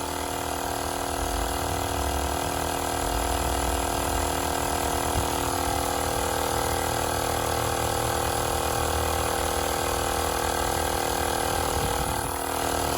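Tower Top tire pump running steadily while inflating a truck tire, with the pressure climbing through the high twenties psi.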